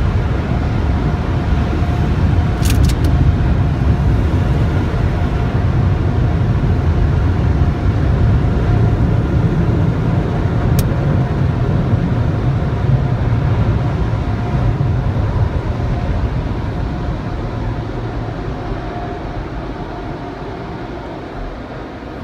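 Drive-through car wash power dryers blowing air over the car, a loud steady rush heard from inside the cabin that fades over the last several seconds. A few faint ticks sound over it.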